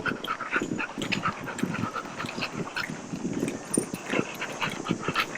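A dog panting, with short irregular dog sounds throughout.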